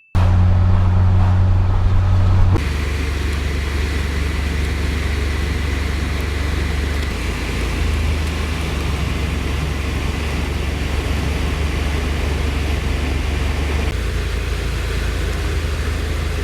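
Car driving at steady highway speed: a constant low engine drone with road and wind noise. The sound shifts abruptly about two and a half seconds in, then runs on evenly.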